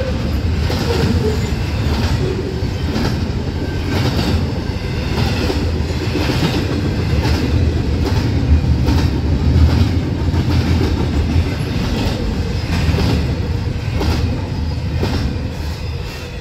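Double-stack container train rolling past, its freight car wheels rumbling on the rails with a regular clickety-clack about once a second. The sound falls away near the end as the last car goes by.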